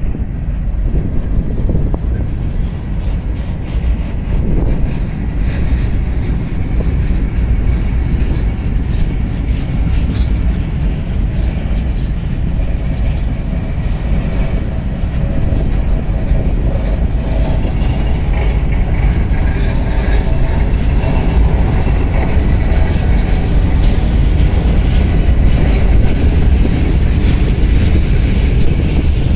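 Loaded freight gondola cars rolling past on jointed rail, a steady low rumble of wheels and cars with some clickety-clack. Strong wind buffets the microphone.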